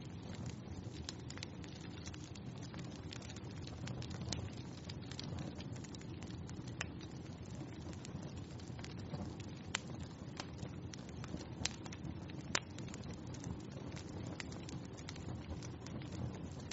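Wood fire crackling in a fireplace: a steady low rush of flame with scattered sharp pops and snaps, a few louder pops around the middle.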